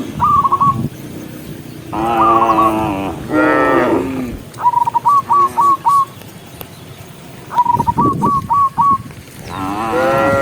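Cattle mooing: two long, drawn-out moos a couple of seconds in, then more lowing near the end. Between them comes a short repeated whistled call of four or five quick notes, heard three times.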